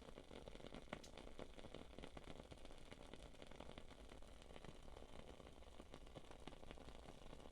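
Wood-wick candle crackling faintly, with many small irregular pops and one slightly louder pop about a second in, over a soft steady low hum.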